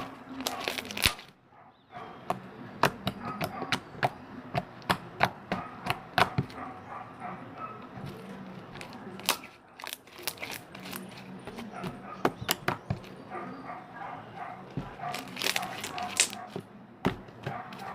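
Homemade slime being squished and kneaded by hand, giving many sharp, irregular clicks and pops.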